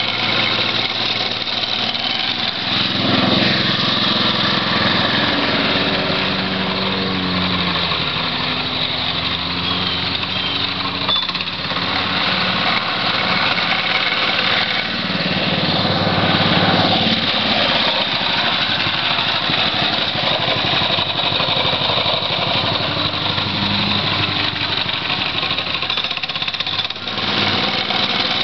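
Mini bike's small engine running throughout, its pitch rising and falling as the throttle is opened and eased off, with stronger revs about a third of the way in and again a little past the middle.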